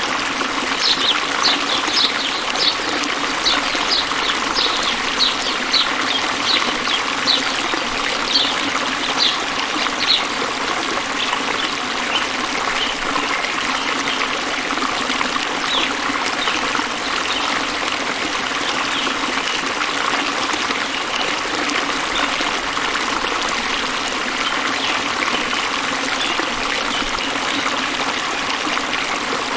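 Running water of a stream trickling and flowing steadily. Over it, a series of short high chirps repeats about twice a second for the first ten seconds, then continues more faintly.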